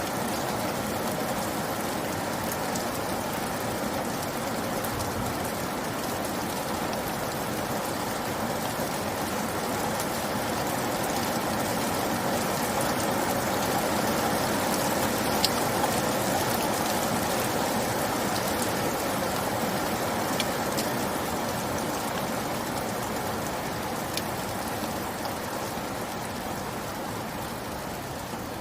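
Steady rain falling, with scattered single drops ticking on a surface. It swells slightly about halfway through and eases near the end.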